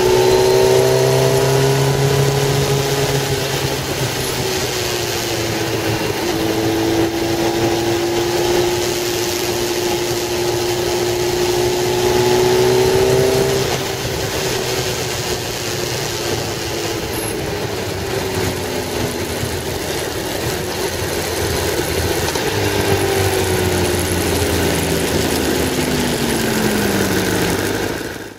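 Car engine and road noise heard from inside the cabin while driving. The engine note rises and falls with speed, drops away about halfway through, and slides down near the end as the car slows.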